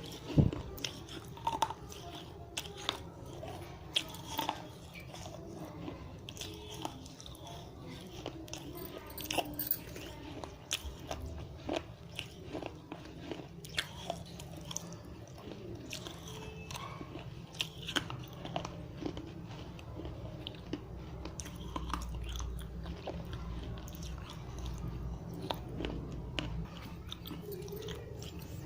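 Dry red clay diya pieces being bitten and chewed close to the microphone: irregular sharp crunches of brittle clay, some spaced a second or two apart, denser in the first half.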